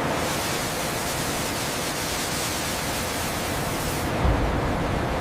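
A steady, even hiss of noise that holds at one level, with a brief low thud about four seconds in.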